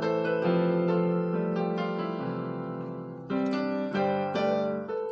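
Keyboard playing a gospel chord progression: full chords held and sustained, with a new chord struck about three seconds in and two more changes quickly after.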